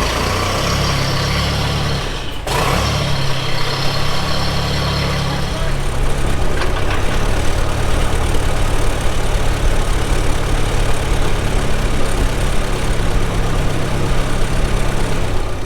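A freshly started farm vehicle's engine running steadily, with a brief catch about two and a half seconds in, and running a little louder from about six seconds in.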